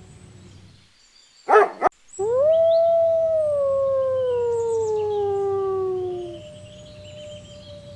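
A canine howling: a short loud burst about one and a half seconds in, then one long howl that slides slowly down in pitch for about four seconds. A second, fainter howl runs before and after it, with faint bird chirps behind.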